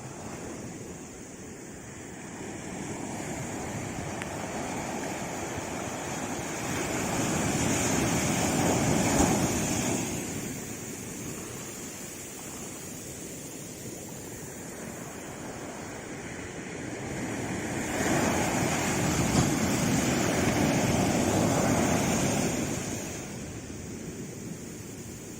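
Sea waves breaking and washing in, swelling twice into louder surges, about a third of the way in and again toward the end, with a softer steady rush of surf in between.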